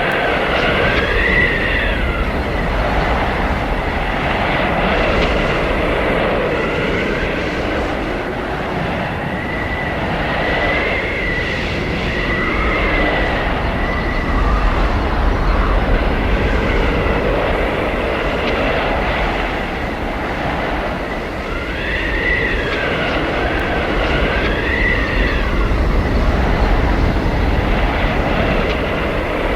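Howling blizzard wind: a steady roar of gusts with a low rumble that swells and eases, and high whistling tones that waver up and down in pitch, coming and going three times.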